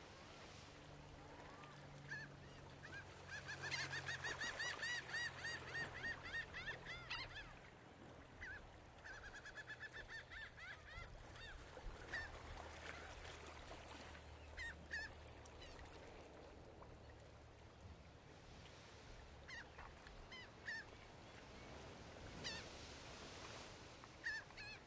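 A bird calling in fast series of short, sharp arched notes, the busiest run about three to seven seconds in and another around nine to eleven seconds, then single calls scattered through the rest. A faint low steady hum lies underneath.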